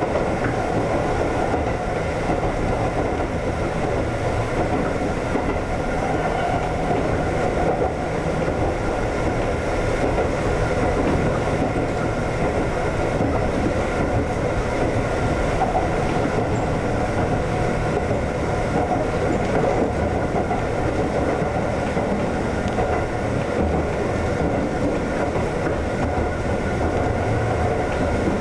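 Konan Railway 7000 series electric train (ex-Tokyu 7000 series) running steadily along the line, heard from the front of the train. The running noise is continuous, with a faint steady whine over it.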